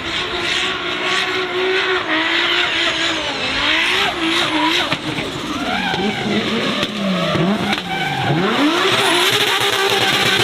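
A race car's engine revving, its pitch swinging up and down, dipping sharply twice and climbing again in the second half, while its tyres squeal and skid.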